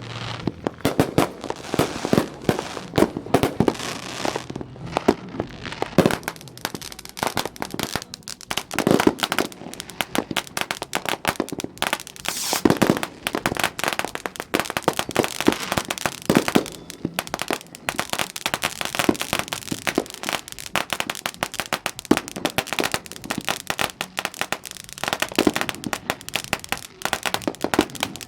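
Consumer fireworks going off without a break: a dense run of pops, bangs and crackling, several rounds firing at once, with a few louder bangs standing out.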